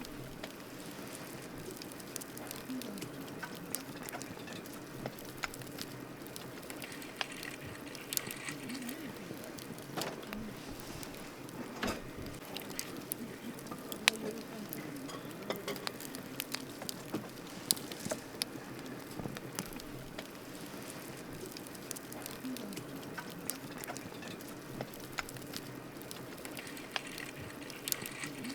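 Wood campfire burning: a steady soft hiss with frequent irregular crackles and pops, and a few sharper snaps about halfway through.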